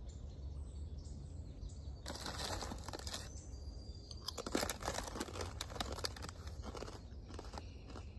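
Crinkling and rustling of something being handled close by, in two stretches about two and four seconds in, over a steady low rumble.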